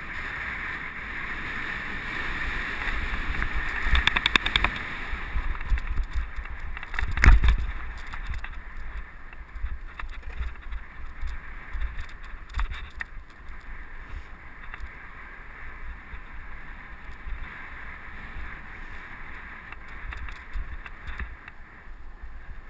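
Giant mountain bike ridden along a dirt trail, heard from a helmet camera: tyres rolling over dirt and wind on the microphone, with rattling over rough ground about four seconds in and a hard jolt about seven seconds in.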